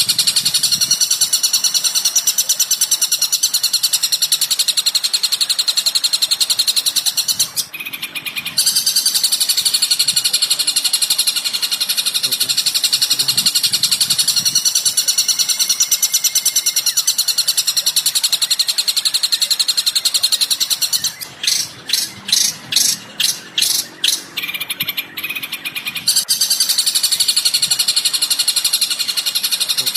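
Songbird calls: continuous fast, high-pitched chattering trills. They break off briefly about eight seconds in, and change to a run of about nine separate sharp chirps a little past the two-thirds mark.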